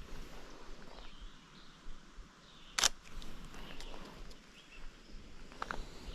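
A single shutter click from a Sony A7iii mirrorless camera about three seconds in, over quiet outdoor ambience with faint bird chirps and a few soft crackles near the end.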